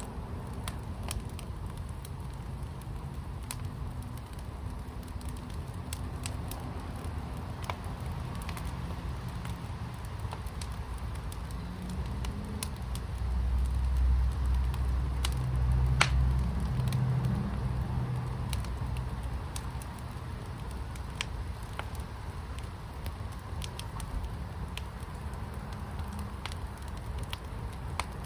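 Wood fire in a firepit crackling, with scattered sharp pops and one louder pop about midway. A low rumble swells and fades in the middle.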